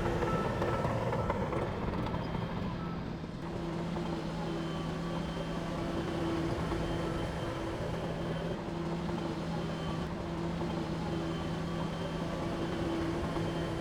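Heavy diesel engine of earthmoving equipment running steadily at a constant pitch, a low drone with a higher hum above it.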